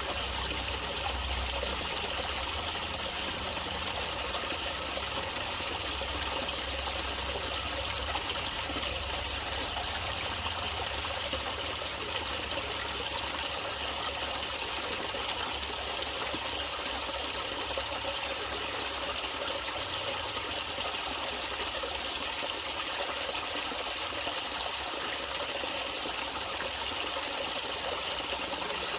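Water trickling and flowing steadily in a natural stream.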